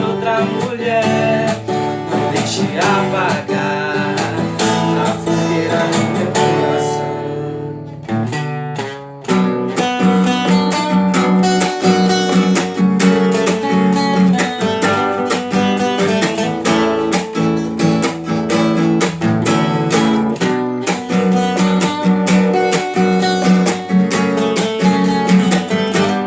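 Acoustic guitar strummed through an instrumental passage of a sertanejo love song. The strumming thins out about eight seconds in and comes back in full about a second later.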